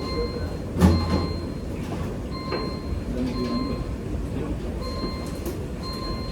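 Busy commercial kitchen noise: a steady rumble and hiss, with a short electronic beep sounding again and again, roughly once a second, and a sharp knock about a second in.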